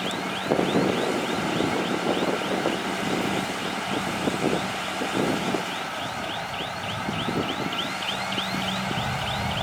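Crawler bulldozer working: its diesel engine runs steadily under irregular clanking, with a rapid run of short high squeaks that come faster from about six seconds in.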